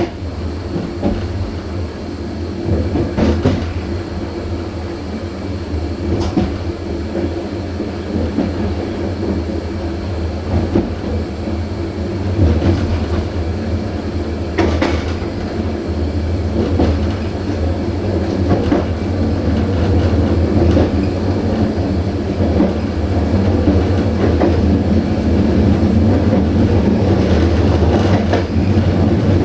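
Passenger train running on jointed track: a steady rumble with the wheels clicking over rail joints every few seconds, growing louder toward the end.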